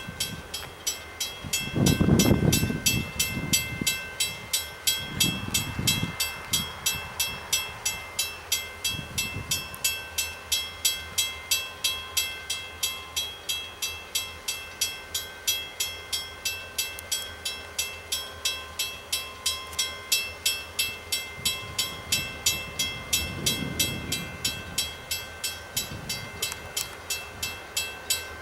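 Railroad grade-crossing bell ringing steadily, about three strokes a second. Low rumbles come and go a few times beneath it, loudest about two seconds in.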